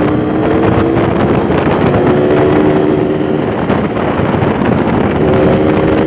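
Yamaha RX King 135cc two-stroke single-cylinder motorcycle engine running while riding, its note rising and dropping a little with the throttle, with wind buffeting the microphone.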